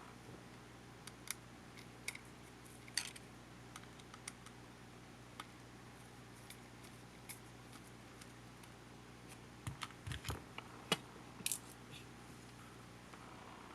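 Scattered small clicks and taps, with a short cluster of louder knocks and clicks about ten seconds in: tools and small plastic parts being handled while a compact camcorder is taken apart.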